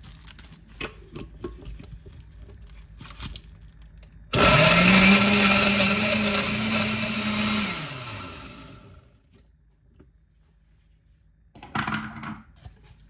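A small electric motor, like a blender's, spins up with a rising whine, runs steadily for about three seconds and winds down, then gives one short pulse a few seconds later. Light clicks and knocks come before it starts.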